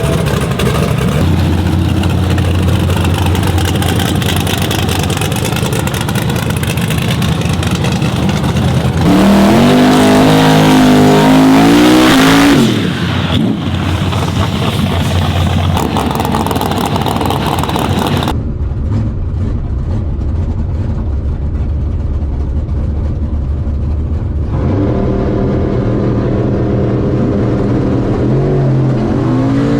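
Drag-racing truck engines running loudly throughout. A truck's engine note climbs hard for about three seconds, a launch and pass down the strip, then drops off sharply; near the end another engine revs up.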